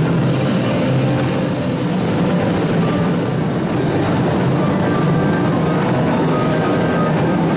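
500 Series Shinkansen bullet train moving along the platform as it departs, a steady low rumble and rush of the carriages going past.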